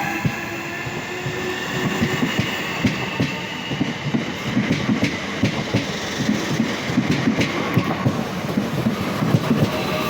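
Class 465 Networker electric multiple unit pulling out, its traction motors whining in slowly rising tones. From about two seconds in, its wheels clatter over the rail joints as the carriages pass.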